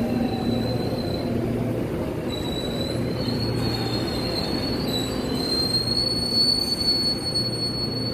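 Korail electric commuter train slowing to a stop at the platform, a thin high-pitched squeal from the train running over its rumble and a low steady hum; the squeal breaks off for about a second early on, then returns and rises slightly.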